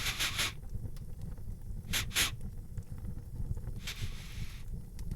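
A man sniffing the air: a quick run of sniffs at the start, two more about two seconds in, then a longer inhale about four seconds in. Under it runs a steady low crackle of fireplace ambience.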